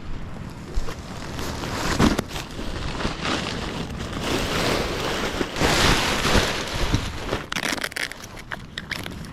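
Wind gusting over the microphone, with sea surf behind and scattered short knocks and rustles near the end.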